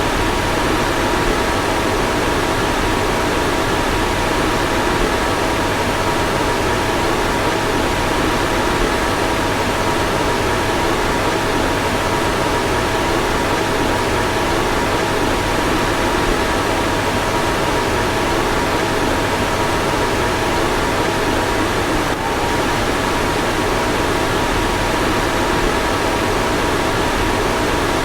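A car fan running steadily: an even rush of moving air with a faint steady two-note whine in it, and a slight hitch about two-thirds of the way through.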